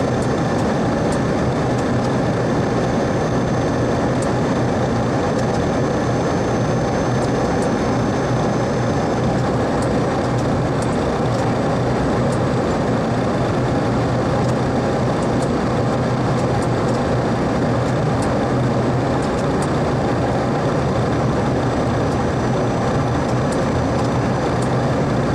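Steady flight-deck noise of a Boeing 737-300 taxiing with its CFM56 engines at idle: a constant low hum under an even rush of air, with a faint high whine that drops out about nine seconds in and comes back near the end.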